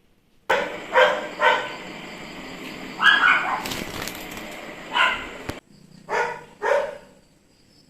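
Dog barking in short single barks, about five in all, with a pause in the middle.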